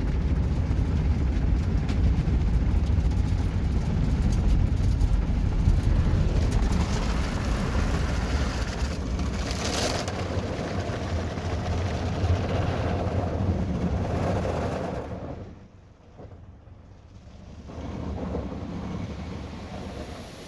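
Ryko SoftGloss XS 2.5 automatic car wash working over the car, heard from inside the cabin: a steady rumble with water and wash noise on the body, a brief hissy surge about halfway through. The noise falls away suddenly about three-quarters of the way in, then picks up again more quietly.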